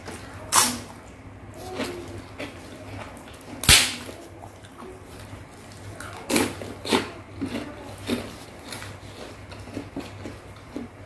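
Close-miked mukbang eating sounds: chewing and wet lip smacks of someone eating rice cake in thick peanut sauce by hand. Several sharp smacks come through, the loudest about four seconds in, over a faint low hum.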